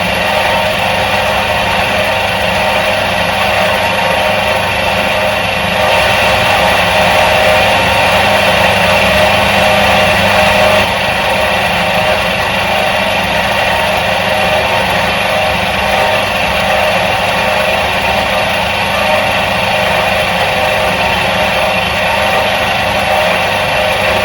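Electric motor of a 1977 Soviet washing machine running with a steady hum, a little louder for a few seconds near the middle.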